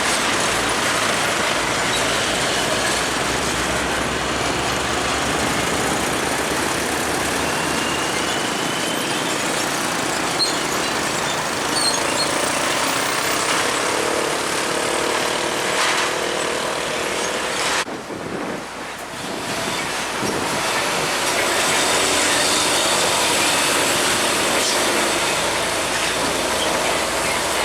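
Heavy trucks and other road traffic passing close by: a steady rush of engine and tyre noise that briefly drops away about eighteen seconds in.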